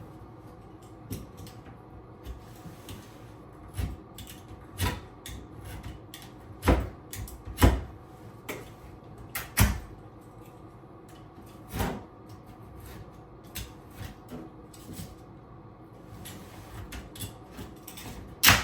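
Shims at a vanity cabinet being cut and broken off: a run of irregular sharp knocks and cracks a second or two apart, with one sharp crack at the very end.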